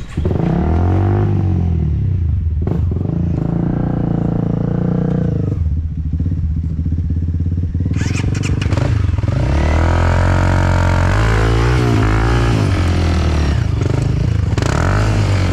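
Enduro dirt bike engine revving hard in repeated bursts, its pitch climbing and dropping several times, with the longest, most uneven run of revs in the second half.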